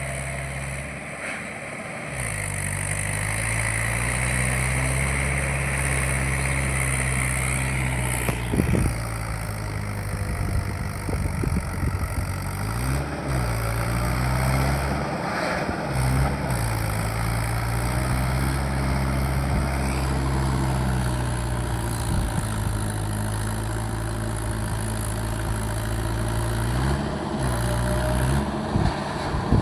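Mahindra 585 tractor's diesel engine running steadily under way, its note dipping briefly a few times as the revs drop and recover.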